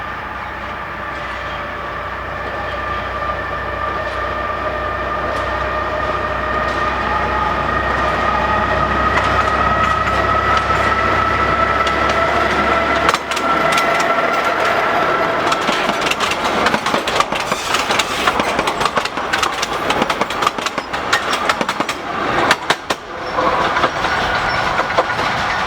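TU8 narrow-gauge diesel locomotive approaching, its engine note slowly rising and getting louder over a deep rumble. About halfway through, the rumble drops away as it passes, and the train's wagons follow, rattling and clicking over the rail joints.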